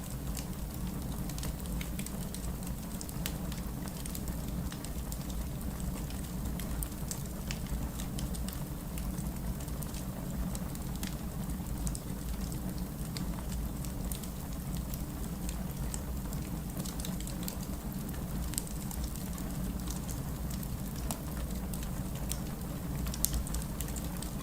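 Fireplace crackling, a scatter of small sharp pops, over steady rain and a low, even rumble.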